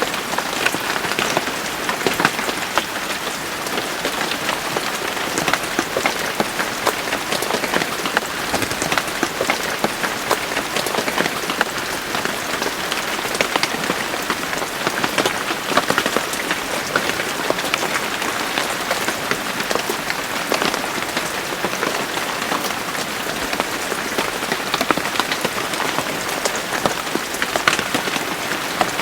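Steady rain falling, an even hiss dense with the patter of individual drops striking a surface.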